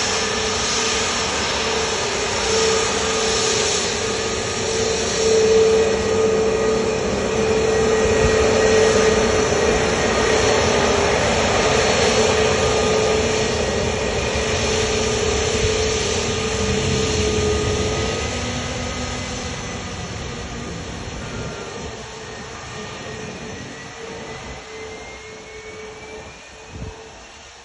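Jet engine noise of an Airbus A320neo, with a steady droning tone, loud through the first half and then fading away steadily as the airliner moves off.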